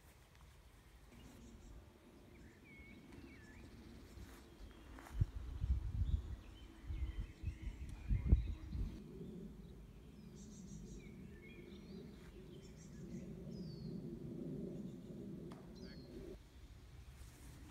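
Small birds chirping and whistling now and then, over low outdoor noise. Irregular low rumbles on the microphone, loudest between about five and nine seconds in.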